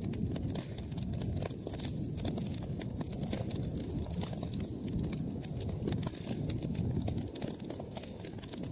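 Wood fire burning in a fireplace: a steady low rumble of flames with many small, sharp crackles and pops scattered throughout.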